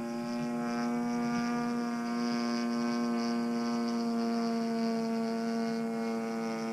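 DLE 35RA single-cylinder two-stroke gas engine and propeller of an RC plane running steadily in flight, a fresh top-end rebuild still being broken in; an even drone that holds its pitch and dips slightly near the end.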